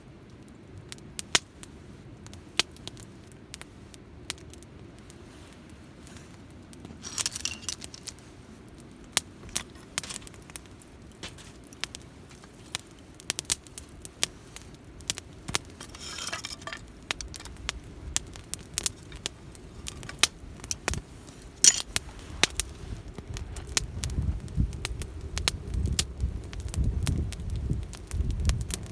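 Wood campfire crackling and popping, with irregular sharp snaps and a couple of brief hisses from the burning wood. A low rumble builds through the second half.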